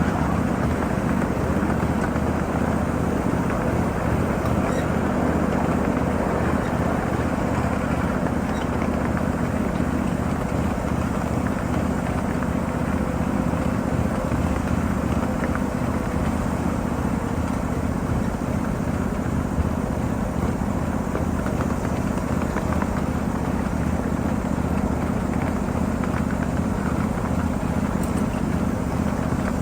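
7.5-inch gauge ride-on miniature freight train rolling along the track: a steady rumble of wheels on rail and the locomotive running, with no clear rhythm or change.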